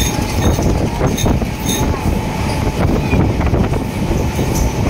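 A train running across a railway bridge, heard from aboard: a steady loud rumble of wheels on the rails, with occasional faint clicks and a thin steady whine underneath.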